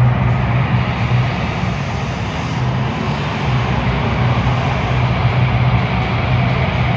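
Monster truck engines running loudly and steadily.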